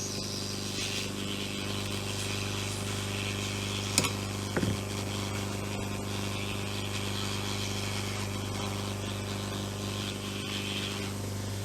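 Hot air rework blower running steadily while heating the processor chip to loosen its solder: a low hum with an airy hiss. Two light clicks come about four seconds in.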